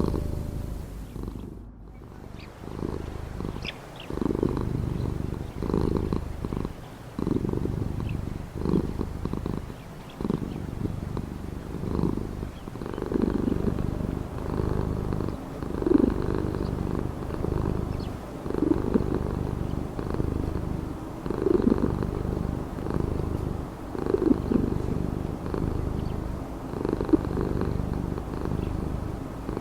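Domestic cat purring close up, a steady low rumble that swells and fades in waves a couple of seconds apart as the cat breathes in and out.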